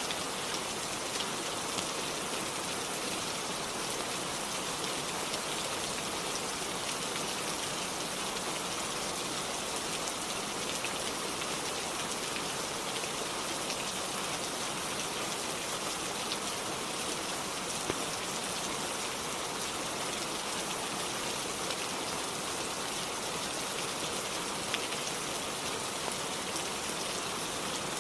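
Steady, even rainfall, a dense hiss of drops with a few sharper ticks scattered through it.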